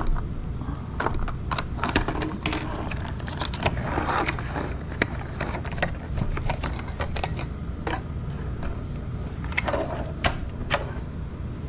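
Scissors snipping and packaging being cut open and handled: a run of irregular sharp clicks and snips, with crinkling rustle about four seconds in.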